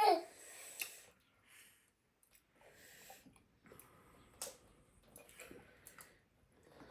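Faint eating sounds during a lull: soft mouth noises and breathing, with a few short clicks, one about a second in and another past four seconds.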